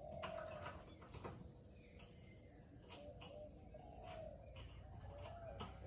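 Steady high-pitched chirring of crickets in a dawn chorus, with faint, short, wavering lower calls and a few soft clicks now and then.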